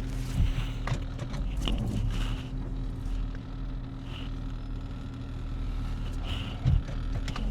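Car engine running steadily with a low hum, with scattered clicks and two short thumps, one just after the start and one near the end.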